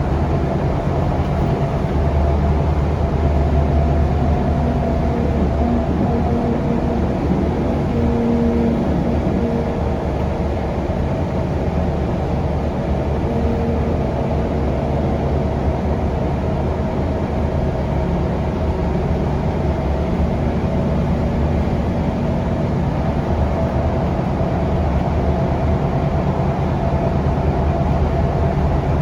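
Scania K360UA articulated city bus running along, heard from on board: the diesel engine's steady low hum over road and tyre noise, its note shifting slightly in pitch now and then.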